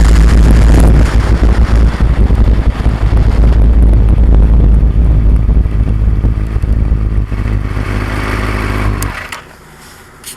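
2002 Yamaha R6 inline-four motorcycle engine running, heard through an action camera's microphone that is rattled by vibration, so the sound is loud, rough and distorted. The engine sound fades off and cuts out about nine seconds in, leaving a few faint clicks.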